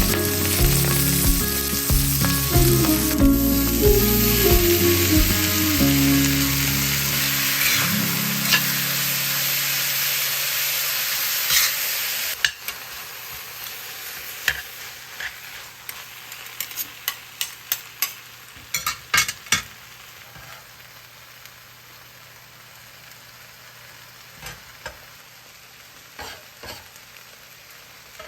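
Food frying in a pan with a loud sizzle that drops off suddenly about twelve seconds in. A quieter sizzle follows, with scattered clicks and knocks of a utensil stirring against the pan. Background music fades out during the first several seconds.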